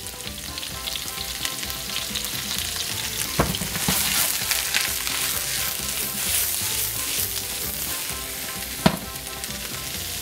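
Sliced mushrooms, onion and peppers sizzling in sesame oil in a wok as they are stir-fried and tossed; the sizzle grows louder midway. Two sharp knocks, about three and a half and nine seconds in.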